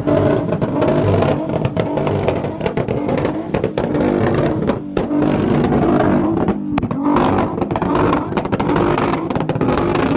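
Car engine revving hard at high rpm, loud and unbroken, its pitch rising and falling.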